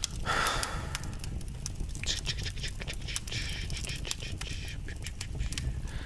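Crackling fireplace: a steady low rumble with frequent sharp pops and crackles. A brief hissing, breathy sound rises at the start and another from about two to four seconds in.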